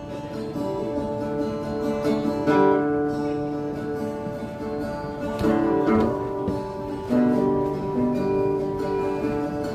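Acoustic guitar playing a folk song intro, ringing chords that change every couple of seconds.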